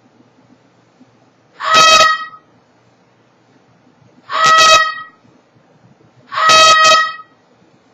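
A bird calling loudly, three single calls about two to two and a half seconds apart; the third call breaks in two near its end.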